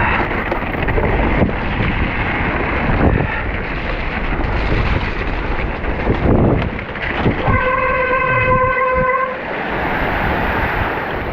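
Wind rushing over the microphone and tyres rolling through wet, muddy trail as a mountain bike is ridden, with a steady pitched squeal lasting nearly two seconds about three quarters of the way through.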